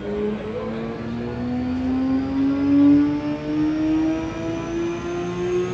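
Sport motorcycle engine making a full-throttle pull on a chassis dyno, its pitch climbing smoothly and steadily as the revs build.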